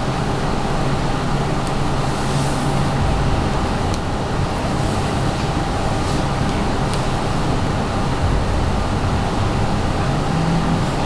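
Steady mechanical hum and hiss from a running machine, with a few faint ticks.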